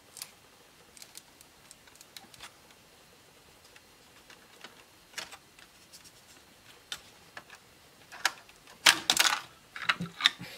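Scattered small clicks and taps of hands and tools on a laptop's plastic casing and internal parts during disassembly, with a louder run of clatter and knocks about nine seconds in.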